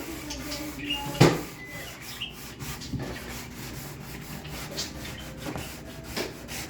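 Sanding a wooden kitchen cabinet door, a continuous scratchy rubbing in irregular strokes, taking the polyurethane finish off before restaining. A sharp knock sounds about a second in.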